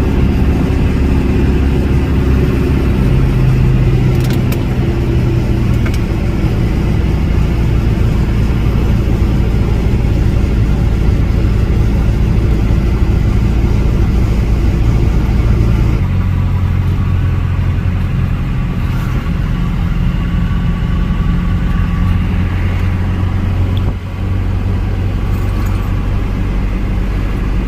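A car's engine and road noise while driving: a steady low drone whose pitch steps up and down a few times, changing abruptly about two-thirds of the way through.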